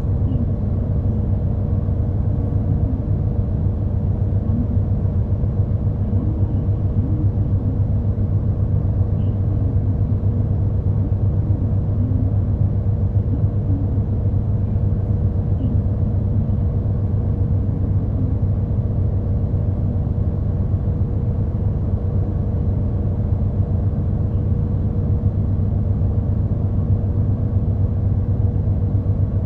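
Steady low engine drone and rumble heard inside a route bus as it runs, with a faint steady hum above it.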